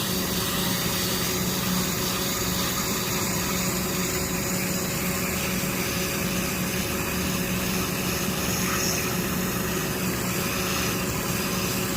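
A steady machine hum with an even hiss.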